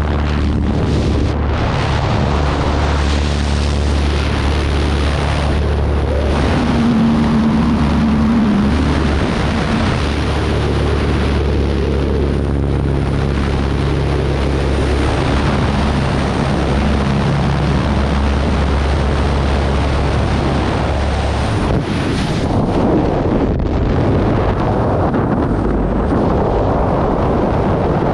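Steady drone of a jump plane's propeller engine mixed with loud wind rushing over the microphone. About 21 seconds in the engine drone drops away, leaving only loud wind noise, as in freefall after leaving the aircraft.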